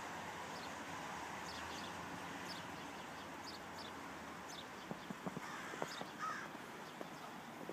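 Quiet outdoor hush with faint, scattered bird calls, one a little clearer about six seconds in, and a few soft ticks in the second half.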